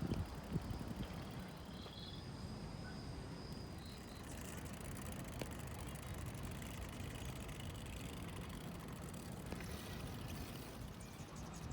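Steady low rumble of wind and riding noise on the microphone during a bicycle ride, with a few faint high chirps in the first few seconds.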